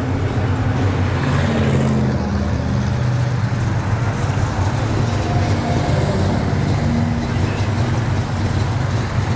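A classic muscle car's engine idling with a steady, deep rumble.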